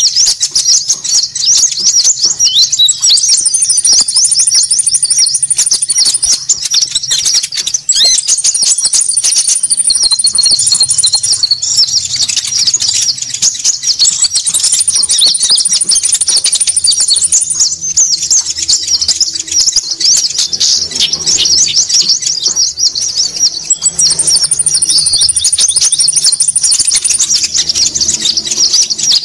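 Konin bird lure call ('suara pikat'): a dense, loud layer of small birds chattering rapidly and continuously, with a thin, very high trill of about three seconds coming in four times over it.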